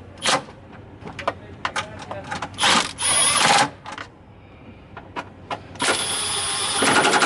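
A hand-held power tool spinning fasteners in three short bursts, the last and longest about two seconds. Sharp metal clicks and knocks of tools come between the bursts.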